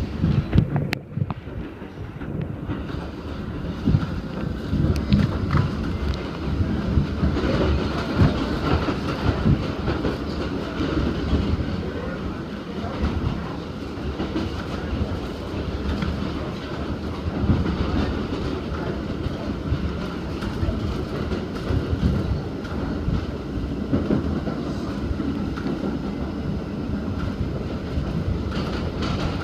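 Ride noise inside an R68 New York City subway car in motion: a steady rumble of wheels on rails with scattered clacks over the rail joints, heard with the car's air conditioning off.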